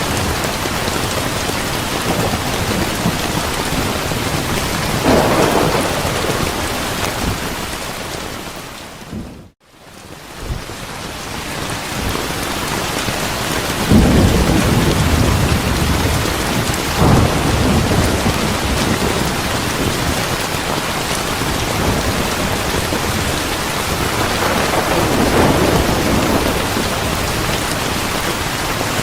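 Steady rain falling, with low rolls of thunder rumbling in several times. The rain fades out almost to silence for a moment about a third of the way through, then swells back.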